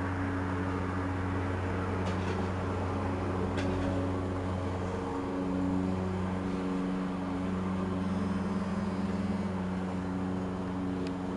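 A steady low electrical or mechanical hum with a few constant low tones, and a faint click about three and a half seconds in.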